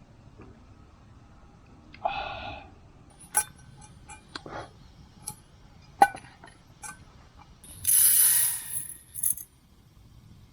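Camp cookware being handled: a string of metal clinks and knocks, with a short ringing clank about two seconds in and a brief rushing hiss about eight seconds in.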